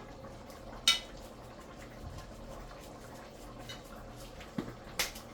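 Two sharp clinks of kitchenware, about a second in and near the end, with a few fainter knocks between them, over low steady background noise.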